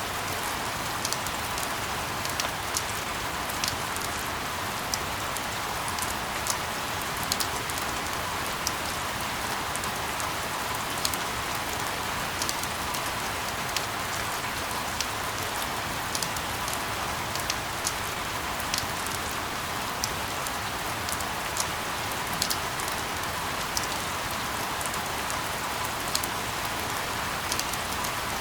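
Steady rain: an even hiss with scattered sharp ticks of single drops, unchanging throughout.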